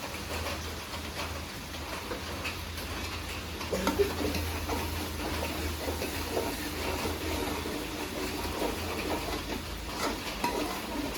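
Heavy rain falling steadily, with a short knock about four seconds in.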